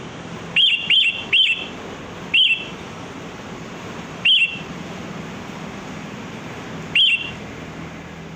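Sooty-headed bulbul giving six short, sharp calls: three in quick succession near the start, then three more spaced out over the following seconds, with a steady low hum underneath.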